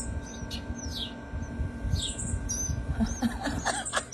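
Nestling birds begging, a run of thin high chirps that each slide down in pitch, about two a second, over a low rumble.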